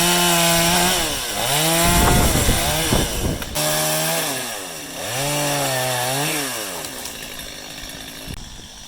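Two-stroke chainsaw running at high revs. Twice its pitch sags and comes back up as the chain is loaded in the cut, before the sound fades near the end.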